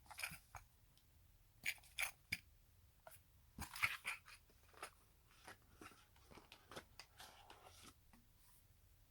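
Handling of merchandise packaging: irregular crinkles, crackles and small clicks as items and plastic wrapping are moved about, densest in the first half and dying away near the end.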